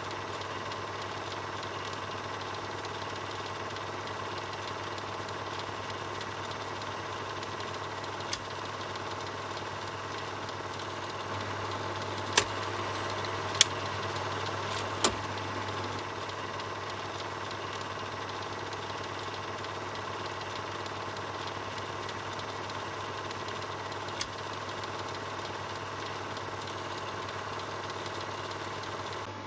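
Film projector running steadily with a continuous mechanical whir and hum. A few sharp clicks cut through it, three of them close together near the middle.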